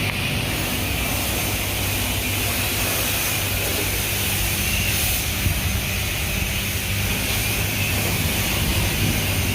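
Self-serve car wash pressure wand spraying rinse water onto a car: a steady hiss over a steady low hum.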